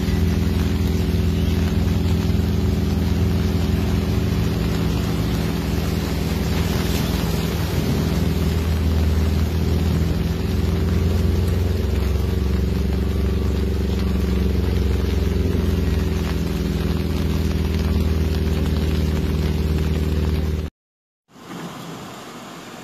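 Torrential rain and water running through a flooded street, over a steady low engine hum from a vehicle standing in the flood. Near the end it cuts off for a moment, then quieter rain and wind hiss takes over.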